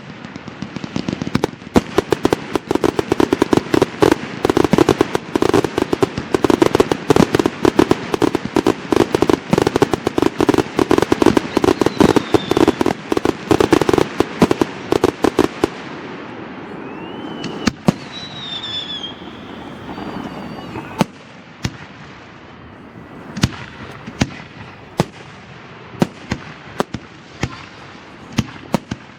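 Fireworks display: a dense barrage of rapid bangs and crackling for about the first half, thinning to scattered single bangs, with a few short whistles just past the middle.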